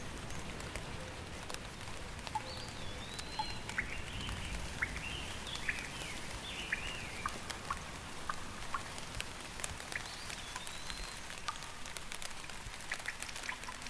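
Steady rain with scattered drops ticking close by, and a bird calling in a run of short chirps and whistles from about two seconds in until about eleven seconds in.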